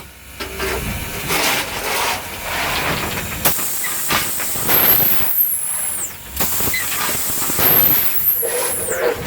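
Reading & Northern 425, a 4-6-2 steam locomotive, hissing steam in repeated surges. A thin high squeal sounds twice, falling in pitch each time, about five and eight seconds in.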